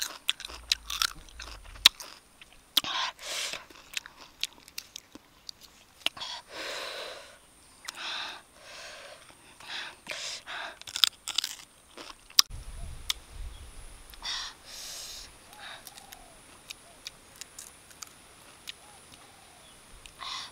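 Close-up chewing of crunchy sour red flower buds dipped in chili salt: wet crunches, lip smacks and sharp mouth clicks in irregular bursts, quieter in the second half.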